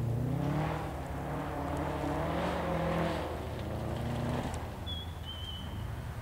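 Subaru Impreza WRX STI's turbocharged flat-four engine revving up and down as the car drives past, the pitch rising and falling through the first three seconds, then settling lower and fading after about four and a half seconds. A brief thin high whistle sounds near the end.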